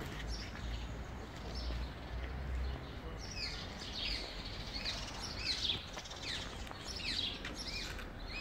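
Small birds chirping: many short, quickly falling calls that overlap and grow busier about three seconds in. A low rumble sits under the first few seconds.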